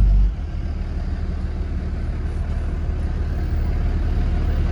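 A motor vehicle's engine running steadily, a continuous low rumble, a little louder just at the start.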